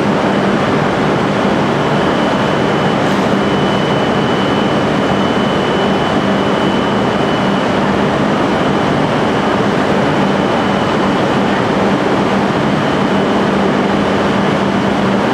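Shinkansen trainset (E6 and E5 series) standing at the platform: a steady, loud hum of its onboard equipment with a thin high whine above it.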